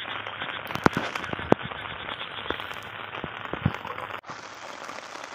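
Steady hiss of rain with a few sharp crackles and clicks as hands handle a woven plastic sack and wet grass. The hiss changes abruptly about four seconds in.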